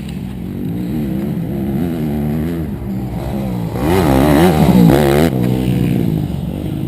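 Motorcycle engine running with its pitch rising and falling as the throttle is worked, loudest about four to five seconds in.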